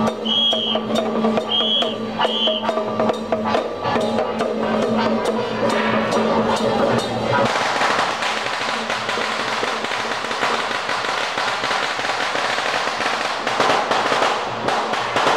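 Temple procession percussion, drums and clashing strikes in a steady rhythm over a held low tone. About seven and a half seconds in, a string of firecrackers starts crackling densely and runs on over the music.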